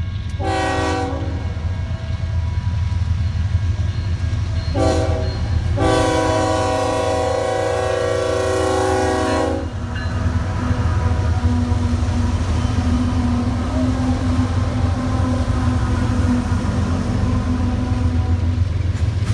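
A train's air horn sounds three times over the steady low rumble of a passing train: a short blast at the start, a brief one about five seconds in, then a long blast of nearly four seconds.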